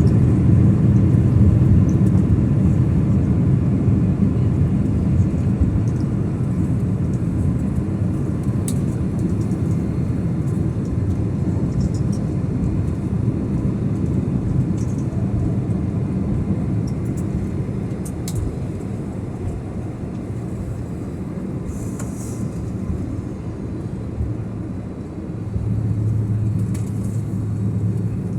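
Steady low rumble of a Japan Airlines jet airliner heard from inside the cabin, slowly easing as the aircraft slows on the ground after landing. A steady low hum joins near the end.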